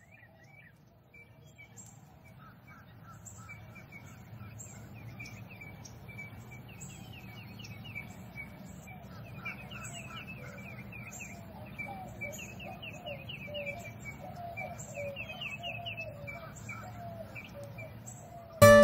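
Birds chirping, many short repeated calls, fading in slowly over a low steady background noise. Loud music cuts in suddenly at the very end.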